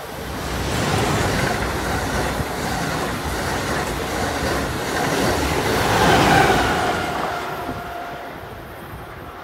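Amtrak Acela Express high-speed trainset passing at speed: a rush of wheel and air noise that builds over the first second, is loudest about six seconds in, then fades as the train goes away. A thin whine sounds in the second half, sinking slightly in pitch as it fades.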